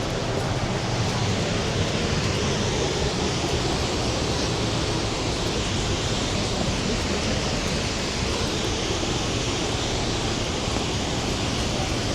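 Rhine Falls waterfall: a mass of water rushing and pouring down in a loud, steady, unbroken noise.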